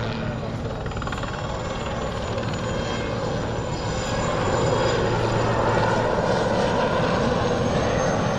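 IAR-330 Puma helicopters flying in formation: the steady noise of their rotors and turbine engines, growing a little louder about halfway through.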